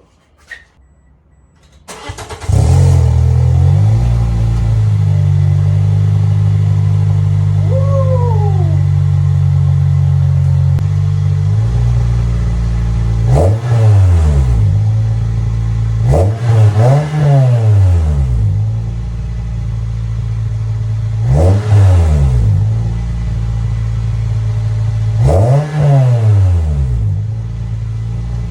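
A 2006 Toyota Corolla XRS's 1.8-litre four-cylinder engine starts from cold through a new aftermarket RS-type exhaust. It catches about two seconds in and settles into a loud, steady idle. Later the throttle is blipped four times, each rev rising and dropping back to idle.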